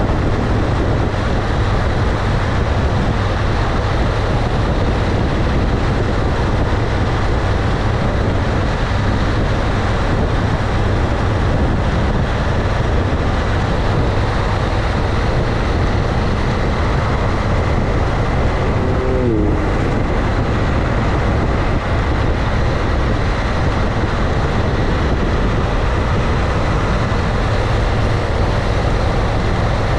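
Motorcycle riding at a steady speed, its engine running under a constant rush of wind and road noise. A brief falling tone comes about two-thirds of the way through.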